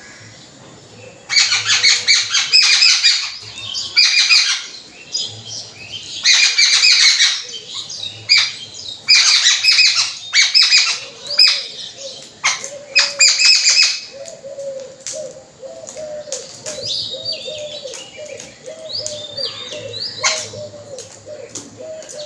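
Babblers and mynas calling: loud, harsh, screeching chatter in bursts, a sign of babblers kept from food by the mynas. After about fourteen seconds the chatter gives way to a run of lower notes repeated about twice a second.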